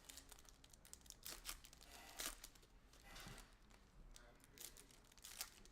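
Faint handling of trading cards and their packaging: scattered soft clicks and short rustles as cards are slid and shuffled.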